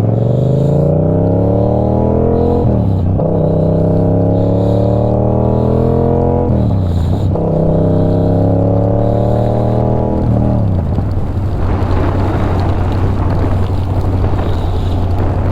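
Yamaha R7's 689 cc parallel-twin engine pulling hard through the gears: the pitch climbs steadily and drops sharply at three upshifts, about a third, two thirds and two thirds of the way in. In the last few seconds it holds a steady speed under loud wind rush on the microphone.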